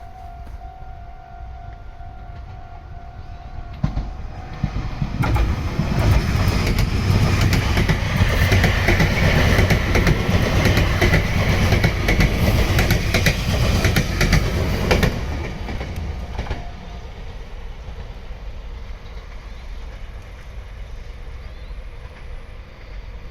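A Meitetsu electric train passes the crossing, its wheels clicking rapidly over the rail joints. The passage builds about five seconds in, stays loud for about ten seconds, then fades. A level-crossing alarm rings steadily before the train arrives and again at the very end.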